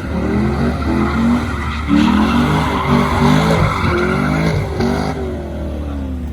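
Car engine revving hard, its pitch climbing and dropping again and again, over a continuous hiss of spinning, skidding tyres: a burnout. The tyre hiss and revving fade about five seconds in.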